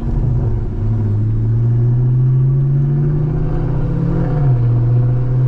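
Car engine under acceleration, its drone rising slowly in pitch and dropping about four seconds in at a gear change, over low road rumble.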